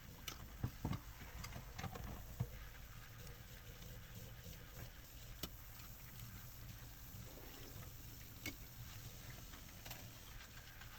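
Bulgogi broth simmering in an earthenware ttukbaegi pot: a low steady bubbling with scattered small pops and a few sharper clicks, most of them in the first couple of seconds.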